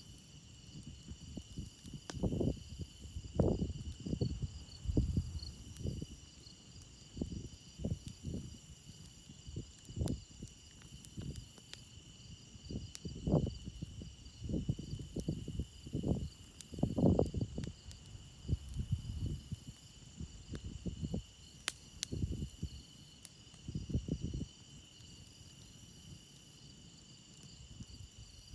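Crickets chirping in a steady chorus, with a campfire giving a few sharp pops and irregular low rumbling surges.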